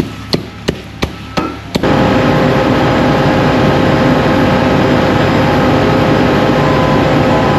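About six sharp bangs, roughly three a second, as asphalt is banged down; then, about two seconds in, heavy paving machinery starts up suddenly and runs loud and steady.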